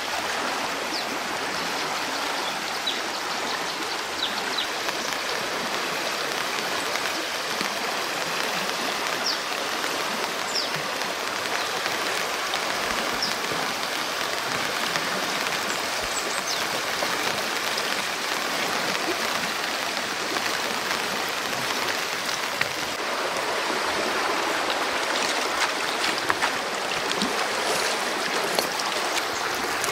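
Steady rushing of running water, an even stream-like flow with a few faint ticks scattered through it.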